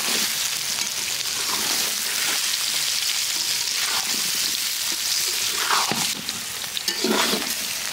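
Food frying in hot oil in a pan: a loud, steady sizzle, with a few scraping strokes of stirring now and then.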